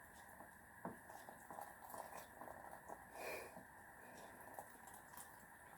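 Near silence: room tone with a few faint light clicks and a brief soft rustle about three seconds in.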